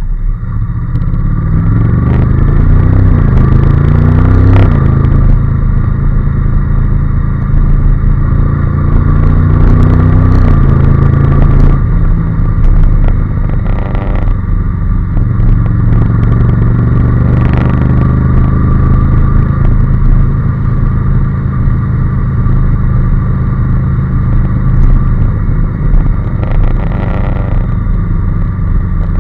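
Honda NC750S parallel-twin engine under way, its pitch rising as it accelerates and dropping sharply at a gear change about four and a half seconds in, rising again to a second drop around ten seconds, then running steadily at cruising speed.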